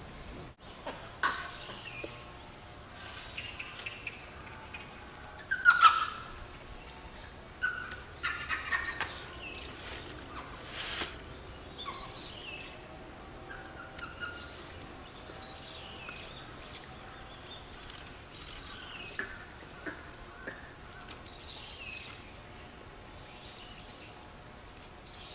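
Short, high-pitched animal calls, most of them sliding down in pitch, coming irregularly, with a louder cluster about six seconds in.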